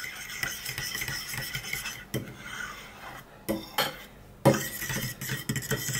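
A spoon stirring thick microwaved oatmeal with syrup in a bowl, scraping around the sides with a few sharp knocks against the bowl.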